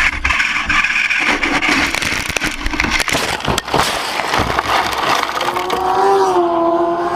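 Motorcycle engine running, with a long rough, noisy stretch full of knocks and clatter in the middle; near the end the engine's tone comes back clearly and rises slightly.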